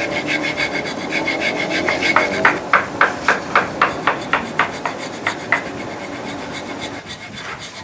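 Wood being filed by hand with a rasp: scraping strokes that settle into a quick, even run of about four strokes a second in the middle, then ease into fainter, steadier scraping.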